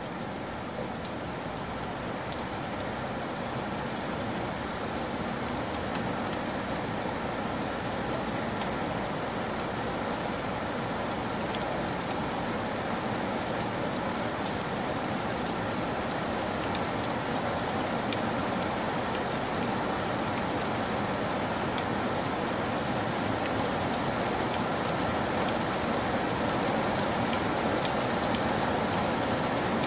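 Steady rainfall: a dense, even hiss of countless drops, growing slightly louder over the stretch.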